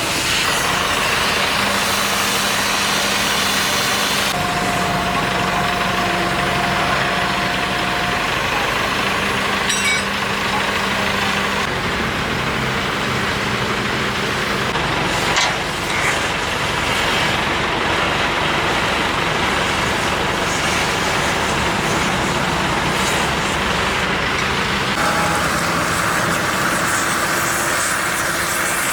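Heavy diesel engine of machinery running steadily, with a couple of brief knocks about ten and fifteen seconds in.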